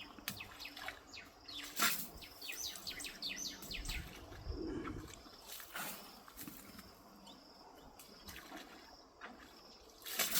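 Wild birds calling, with a fast run of short falling chirps between about two and four seconds in and scattered other calls. A sharp sudden sound comes a couple of seconds in, and another near the end.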